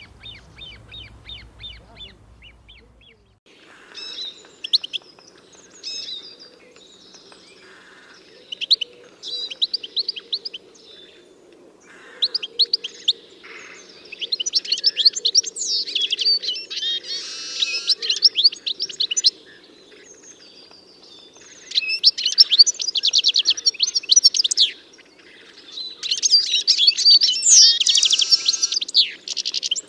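A songbird singing. Quick repeated high notes open it, then long phrases of rapid trills and warbles come again and again, with the loudest bursts in the second half.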